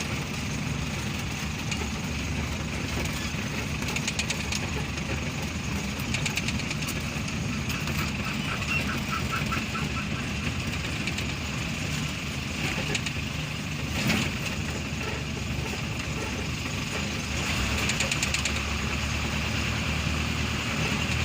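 Vehicle engine running steadily while driving, with a low drone and a few scattered knocks and rattles.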